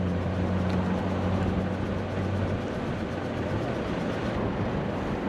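A vehicle engine running with a steady low hum over general traffic and outdoor noise. The hum fades out a little past halfway.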